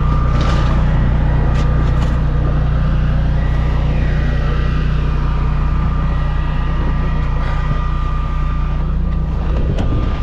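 Home standby generator engine running steadily: a loud, even low hum with a thin high whine over it, dropping off slightly near the end.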